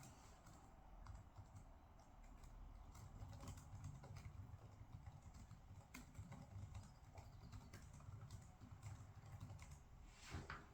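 Faint, irregular typing on a computer keyboard, scattered key clicks over a low background hum.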